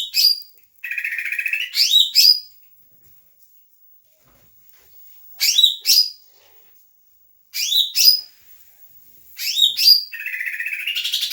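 Greater green leafbird singing. It repeats one stereotyped phrase of rapid rising whistled sweeps, twice preceded by a long buzzy trill, with a silent pause of about three seconds in the middle.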